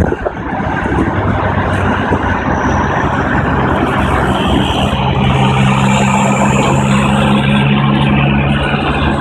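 Nissan D22 Navara pickup's engine and exhaust under way, with a brief dip just after the start and then a steady low drone. A faint high turbo whistle rises in the second half as the turbo spools.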